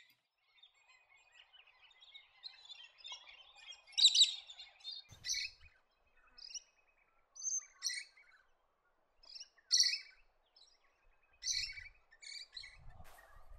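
Musk lorikeets calling: a string of short, high-pitched calls scattered irregularly, with softer twittering between them.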